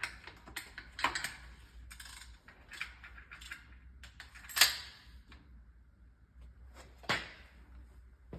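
Hand tools on gearbox housing bolts: a socket wrench clicking and steel tools clinking against the metal housing, with a few sharper metallic knocks, the loudest about four and a half seconds in.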